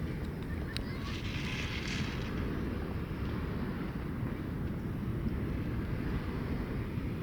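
Strong wind buffeting the microphone: a steady low rumble, with a brief harsher hiss about one to two seconds in.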